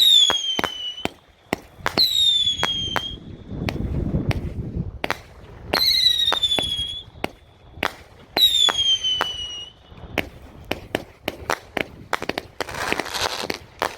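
A Hans Fireworks 'Hurricane' 43-shot angled cake firing: a string of sharp launch pops and bangs, with four whistle shots, each a falling whistle about a second long. Near the end comes a dense burst of rapid crackling.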